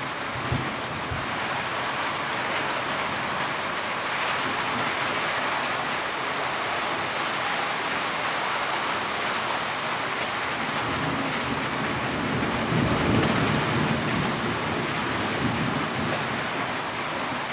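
Heavy rain pouring steadily, with a low rumble swelling about two-thirds of the way through.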